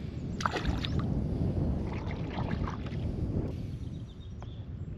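Water splashing and trickling against a kayak, coming in short bursts about half a second in and again two to three seconds in.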